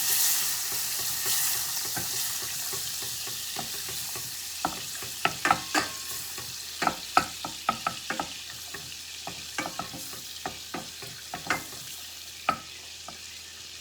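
Butter sizzling as it melts in a hot pan, the hiss slowly fading as the heat is turned down. A spoon clicks and scrapes against the pan from about four seconds in.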